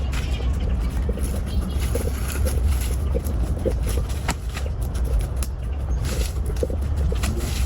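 A large engine running steadily with a deep, low rumble, overlaid by scattered clicks and knocks.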